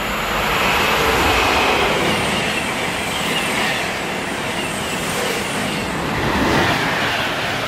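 Class 390 Pendolino electric train passing through at high speed: a steady, loud rush of wheel, rail and air noise, with faint high whines sliding in pitch over it, swelling briefly about six and a half seconds in.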